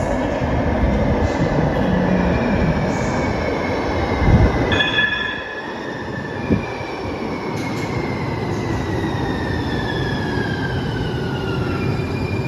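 Siemens S200 (LRV4) light rail train running through an underground subway station, with a steady rumble and high whining tones. About four seconds in there is a loud thump, then the whine falls steadily in pitch, as the train slows.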